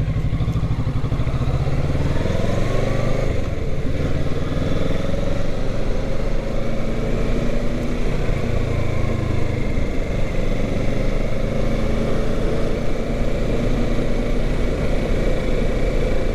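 Kawasaki Ninja 650's parallel-twin engine running steadily as the bike is ridden, rising in pitch a couple of seconds in as it accelerates.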